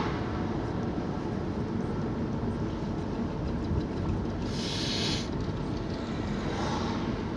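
Steady car road and engine noise heard from inside the cabin; about four and a half seconds in, a brief crash of glass from a load of recycled glass, with a fainter crash near the end.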